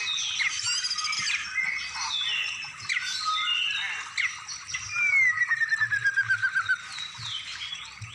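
Several songbirds singing and calling over one another in a dense mix of quick chirps and whistled glides. From about five seconds in, one long falling run of rapid notes stands out. This is a compiled masteran recording of song phrases for teaching caged songbirds.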